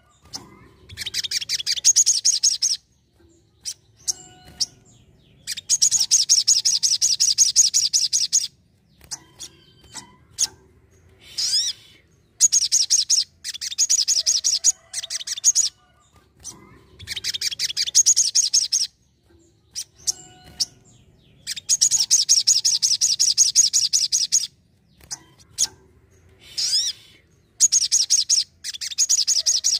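Ruby-cheeked sunbird (sogon) singing: repeated bursts of rapid, high trilling song, each lasting two to three seconds, with short single call notes in the pauses between them.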